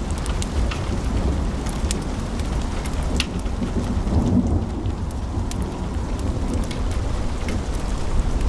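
Log fire in a fireplace crackling: scattered sharp pops and snaps, a few each second, over a steady low rumble of burning.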